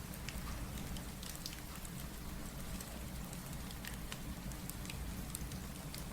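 Steady rain mixed with a crackling wood fire: an even hiss over a low rumble, with scattered sharp crackles.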